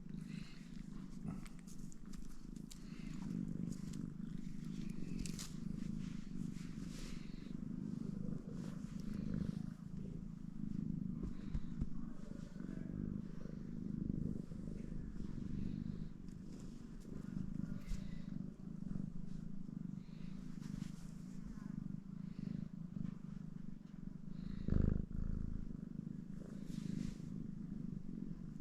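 Domestic cat purring steadily, a continuous low rumble close to the microphone, with one thump late on.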